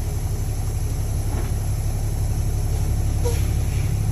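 Semi truck's diesel engine idling steadily, heard from inside the cab as a low, even rumble.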